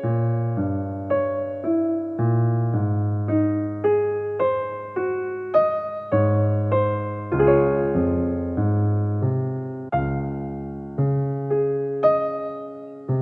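Soft background music: a slow melody of piano-like keyboard notes, about two a second, each fading away before the next.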